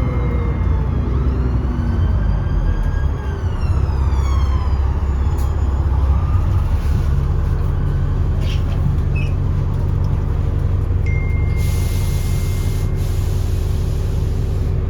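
Alexander Dennis Enviro400 double-decker bus running hard under acceleration, its deep engine rumble strongest in the first six seconds, with a turbo whistle rising and then falling in pitch. After that the engine settles to a steadier run, and a short hiss of air comes about twelve seconds in.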